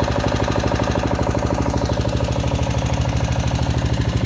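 Small engine of a foundation-lifting machine running steadily, with an even rapid pulsing and a low hum.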